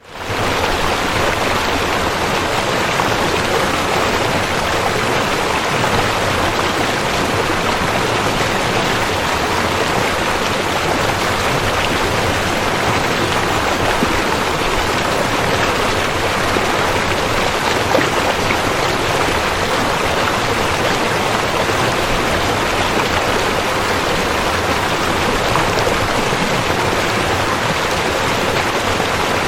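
River water flowing, a steady even rush of running water that fades up from a brief dropout right at the start.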